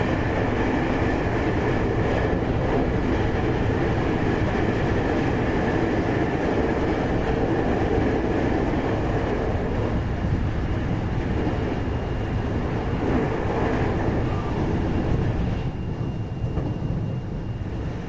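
Running noise inside a JR 521 series electric multiple unit's motor car (KuMoHa 521-30) under way: a steady rumble of wheels on rail with faint steady whining tones. It drops a little in loudness near the end.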